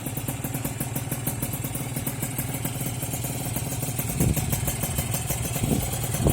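Kawasaki Ninja 150 RR two-stroke single-cylinder engine idling through an MVP aftermarket racing exhaust with a straight-through silencer. The throttle is blipped briefly twice, about four and five and a half seconds in.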